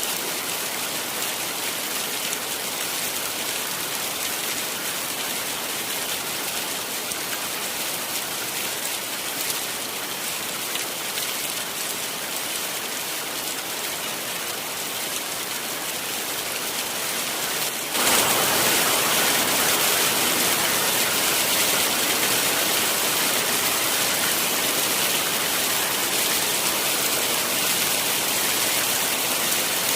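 Heavy rain falling in a steady, dense hiss. About eighteen seconds in it abruptly becomes louder and brighter, and stays that way.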